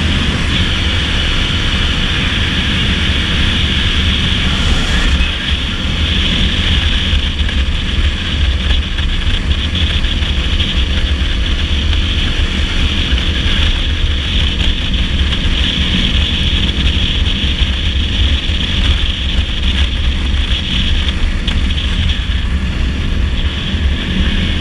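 Dirt bike riding steadily along a paved highway: its engine runs at an even pace under a constant heavy rush of wind on the microphone.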